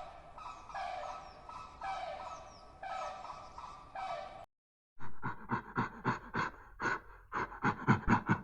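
Animal calls in two separate recordings: first a string of short calls about once a second, then after a brief dropout a fast run of short, sharp calls, about three or four a second.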